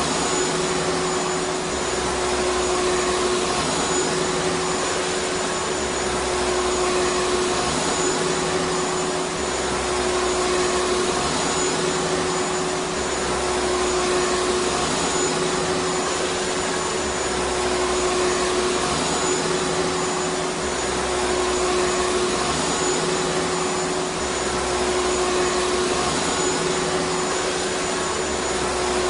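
Vacuum cleaner running continuously: a steady rushing noise with a constant hum and a faint high whine, its low end swelling and easing every two to three seconds.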